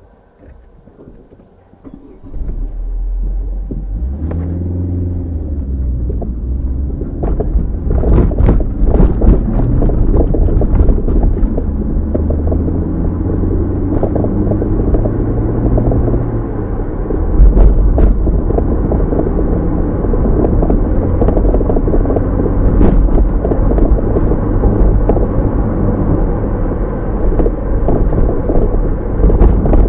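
Car cabin sound picked up by a dashcam: almost quiet at first, then about two seconds in a loud, low rumble of engine and road noise sets in as the car moves off and gathers speed, its engine note shifting as it goes, with a few short knocks.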